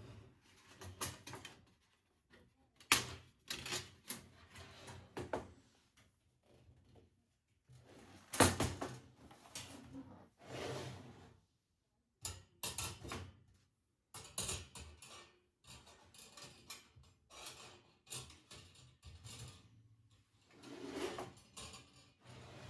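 Hands handling the fire pit and its packaging: irregular knocks and clicks with short stretches of rustling, the sharpest knocks about 3 and 8.5 seconds in.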